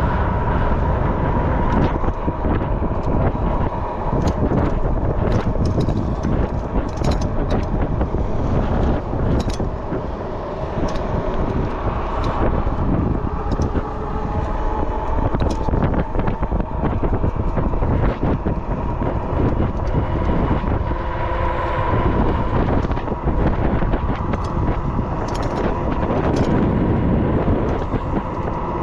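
Wind buffeting the microphone of a moving e-bike, a steady rumble with a faint steady whine above it and scattered sharp knocks and rattles from the ride.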